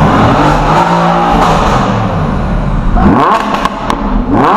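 Lamborghini Huracán's V10 engine being revved while standing still. The revs sink for a couple of seconds, then it is blipped twice sharply near the end.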